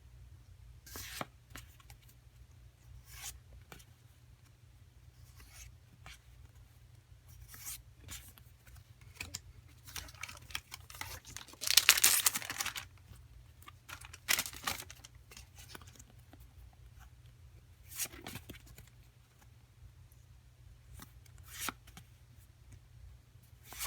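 A foil trading-card booster pack torn open, a rough tear lasting about a second and a half midway through. Around it are light, scattered rustles and slides of cards being handled.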